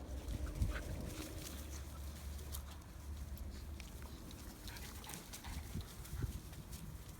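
Dogs playing together, with scuffling and scattered short clicks and rustles over a low steady rumble; one sharper knock about half a second in.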